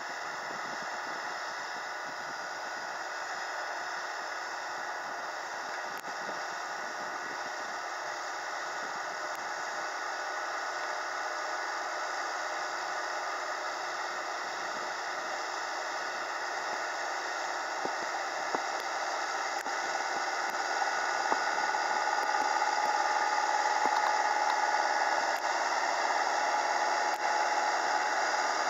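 Kubota tractor running steadily with a mechanical rattle, growing gradually louder over the second half.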